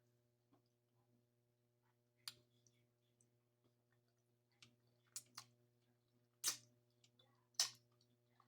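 Eating sounds close to the microphone: about six short mouth clicks and smacks while chewing, spaced irregularly a second or so apart, over a faint steady electrical hum.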